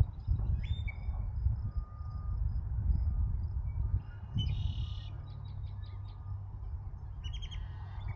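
Wild birds calling and chirping with short, high calls, a buzzy call about halfway through and another near the end, over a steady low rumble.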